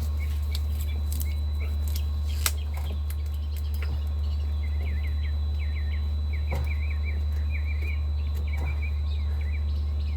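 A steady low hum, with small birds chirping repeatedly in the background from about the middle onward. Scattered light clicks and knocks come from an ignition coil being worked loose by hand, with one sharp click about two and a half seconds in.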